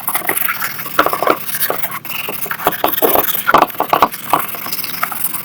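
Irregular scraping and light knocks at no steady rhythm, like hand work on small parts.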